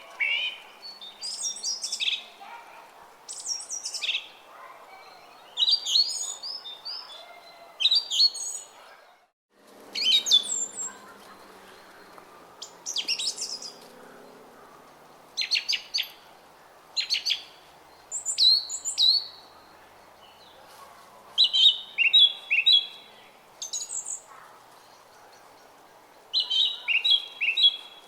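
Songbirds chirping and twittering in short repeated phrases over the steady murmur of a brook. The sound cuts out for a moment about nine seconds in, then resumes.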